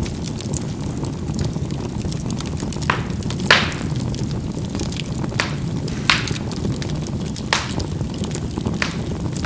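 Charcoal burning in a fireplace: a steady low rumble of the fire with about six sharp pops as the charcoal bursts, the loudest about three and a half seconds in.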